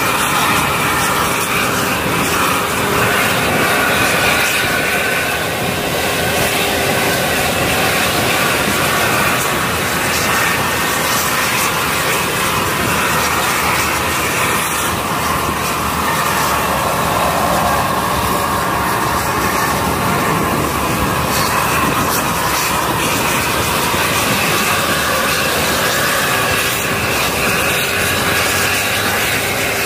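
Steady, continuous vehicle engine noise, an even rushing drone that holds at the same level throughout.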